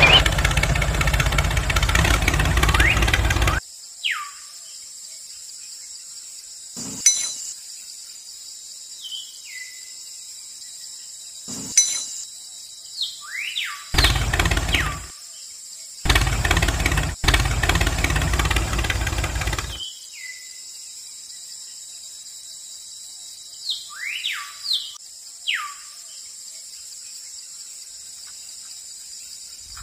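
Small motor of a homemade toy tractor running in three stretches that cut in and off abruptly. Between them, birds call in short falling chirps over a steady high insect drone.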